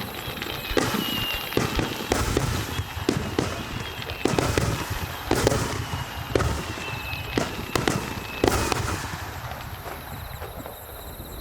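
Aerial fireworks bursting in a rapid barrage: about fifteen sharp bangs over some nine seconds, with crackling and low rumble between them, thinning out near the end.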